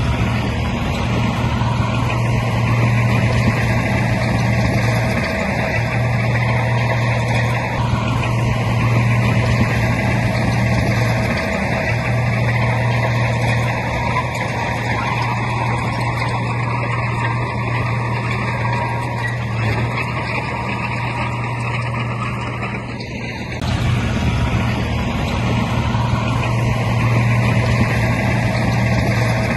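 Bulldozer's diesel engine running steadily, a low engine hum under a wash of mechanical noise, with a brief break about three-quarters of the way through.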